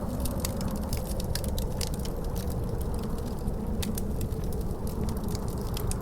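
Wood fire in a fireplace crackling, with many small irregular pops, over a steady low rumble of wind with a faint howl in it.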